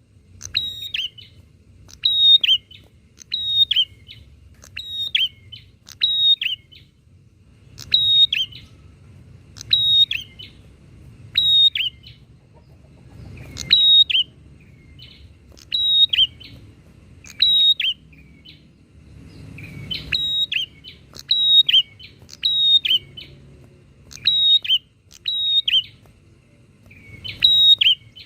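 Prinias (prenjak) calling back and forth: short, sharp chirping phrases repeated about every second and a half, with a faint low hum underneath.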